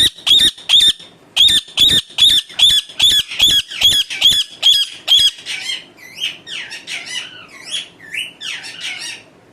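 Pet parrot (tota) screeching, a run of loud harsh calls about two or three a second, then about five seconds in switching to softer, varied chirps and squeaks.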